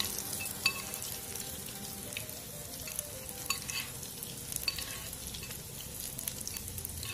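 Oat-and-egg-white battered tempeh slices shallow-frying in hot oil in a nonstick pan: a steady sizzle with scattered sharp pops and crackles.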